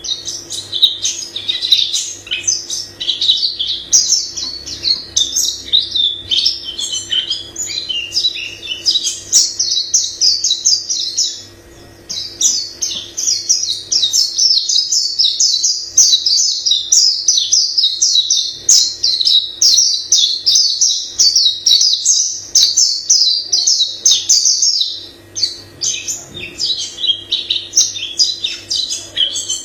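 White-eye singing a long, rapid run of high twittering phrases that pauses only twice, briefly. A faint steady low hum runs underneath.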